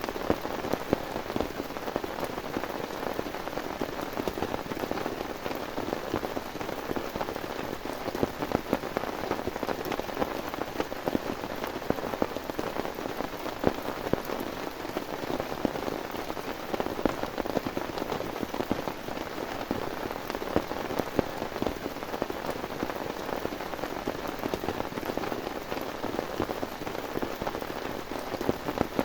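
Heavy rain falling steadily, with many sharp, close drop hits over an even hiss.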